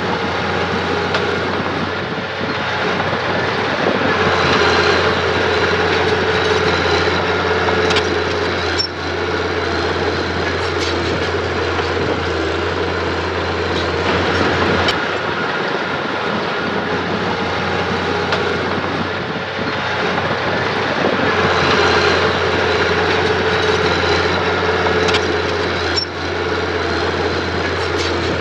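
Mitsubishi mini bulldozer's diesel engine running steadily under load, swelling louder twice as it pushes, with several sharp metallic clanks from the tracks and blade.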